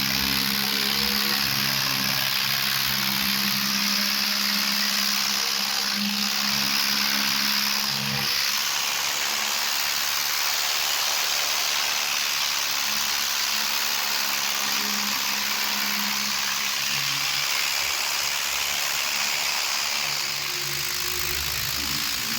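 Diesel tractor engine running steadily, its low tone strongest at first and again near the end, under a constant loud hiss.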